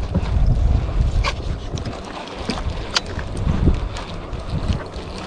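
Wind buffeting the microphone as a low, uneven rumble, with a few sharp clicks.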